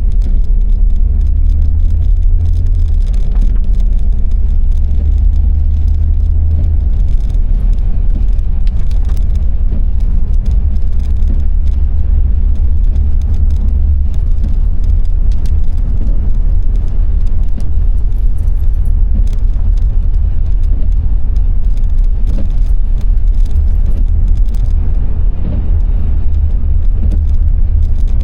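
Car driving, a steady low rumble of road and engine noise, with a faint hum over it that fades out about seven seconds in.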